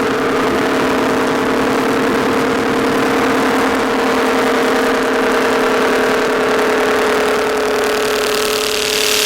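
Electronic techno synth drone: a steady, buzzing sustained tone with no beat, joined by a burst of bright hissing noise right at the end.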